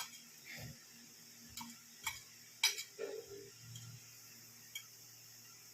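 Quiet, scattered clicks and taps of dishes and utensils, about six over several seconds, as marinated chicken pieces are handled and pressed into a dry flour coating.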